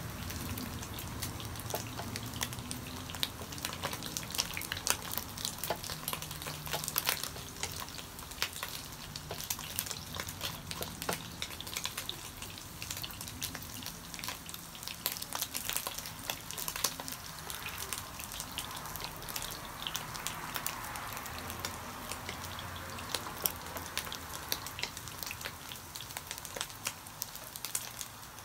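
Slices of Vietnamese pate sizzling and crackling in hot oil in a nonstick wok while they pan-fry to golden brown, with a wooden spatula stirring and turning them now and then.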